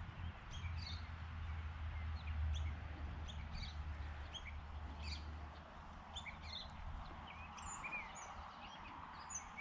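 Small birds chirping with many short, high calls scattered throughout, over a low rumble that fades out about five and a half seconds in.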